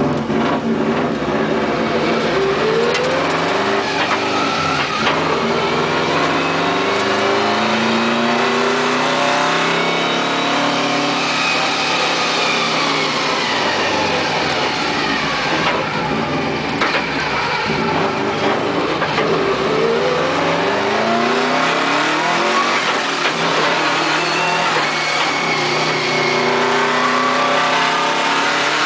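Car engine heard from inside the cabin, running under load as the car is driven, its pitch rising and falling several times as it accelerates and eases off.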